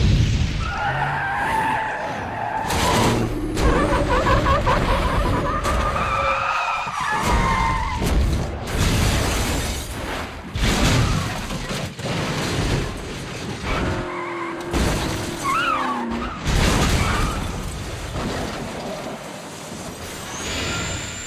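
Film sound effects of a multi-car highway pileup: cars crashing in a string of sharp impacts, glass shattering, and tyres skidding and squealing.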